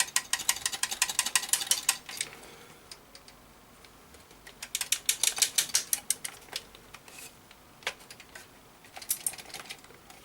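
Loose bits of broken plastic clip rattling inside a Blu-ray player's case as it is shaken, in three bursts of rapid clicking: over the first two seconds, again from about five to six and a half seconds in, and briefly near the end.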